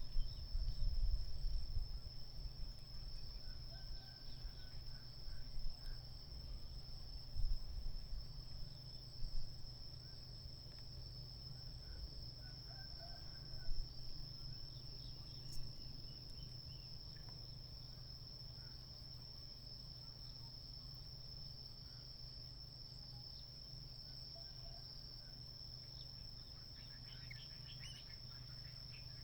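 Steady high-pitched insect drone over a low rumble, with a few dull knocks in the first half and faint, short chirps here and there.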